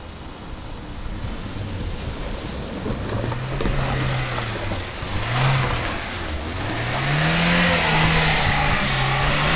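Off-road vehicle's engine revving under load while fording a river, its pitch rising and falling several times and growing louder in the second half, with water rushing and splashing against the vehicle from about halfway through.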